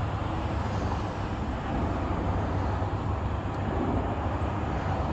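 Steady low rumble of vehicle noise with an even hiss, unchanging throughout.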